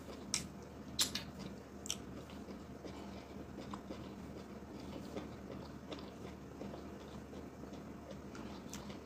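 A person chewing a soft mouthful of eba and slimy ogbono soup with the lips closed: quiet, wet mouth sounds, with a few sharp clicks in the first two seconds.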